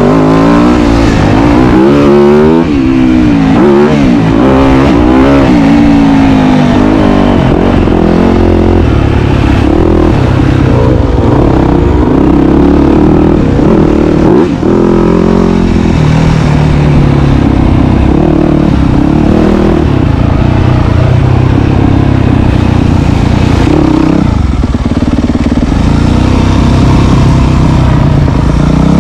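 Dirt bike engine running loud and close, revving up and down repeatedly through its gears for the first several seconds, then pulling more steadily at lower revs.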